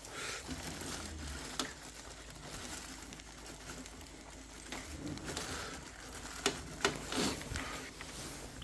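Scattered light clicks, knocks and handling noises of a replacement hot-water flow turbine being pushed into place in a Vaillant Turbo Max combi boiler, with a sharper click about a second and a half in and two more near the end.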